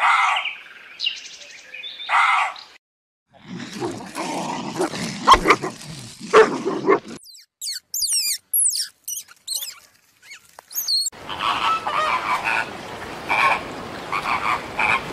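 A run of short animal sounds: a deer calls twice at the start, then a few seconds of rough rustling noise, then thin, high gliding chirps, and from about eleven seconds in, a flock of flamingos honking and chattering.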